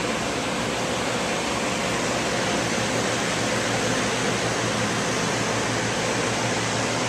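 Fans and dehumidifiers running together: a steady rushing noise with a low hum underneath.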